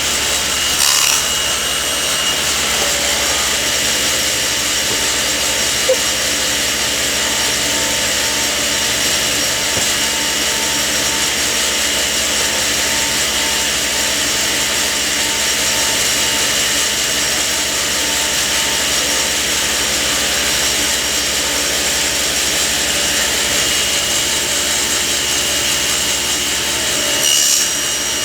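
Woodworking power saw running steadily, with two short louder moments, about a second in and near the end, while thin boards are cut to length.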